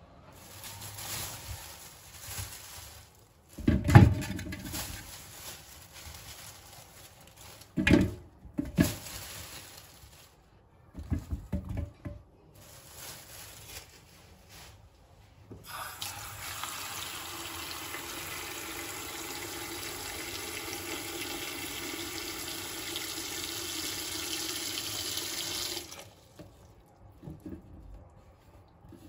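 A few loud knocks and clatters of things being handled, then a water tap running steadily into a sink for about ten seconds before it is shut off.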